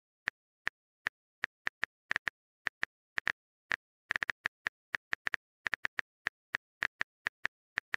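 Smartphone keyboard tap sounds: a quick, irregular run of short identical clicks, several a second, as a text message is typed.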